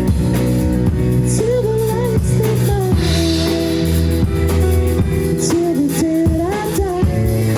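Pop song playing: a female voice singing a melody over guitar and drums.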